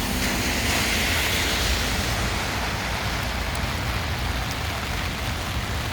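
Hard rain falling steadily, mixed with the hiss of traffic on wet pavement and a low rumble. A louder hiss swells and fades in the first two seconds.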